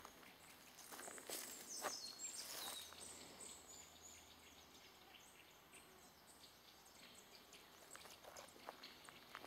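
Near silence in a forest: faint bird chirps with a couple of falling notes about two to three seconds in, and a few soft footsteps on the dry forest floor in the first few seconds.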